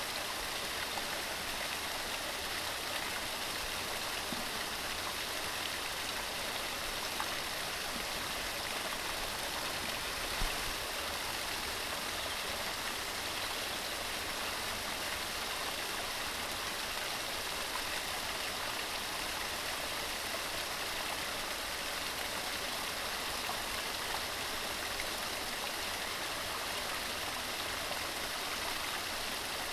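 Mountain stream running steadily over rocks, an even rush of water with small splashes.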